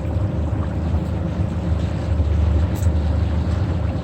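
Boat motor running steadily, a low drone.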